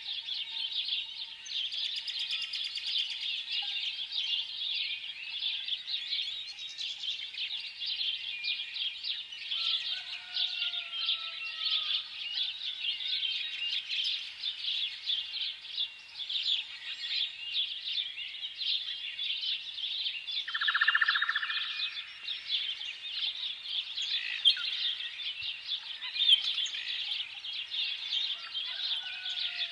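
A flock of sparrows chirping in a dense, continuous chorus of rapid chirps. A few falling whistled notes cut through it about a third of the way in and again near the end, and one louder, lower call stands out about two-thirds of the way in.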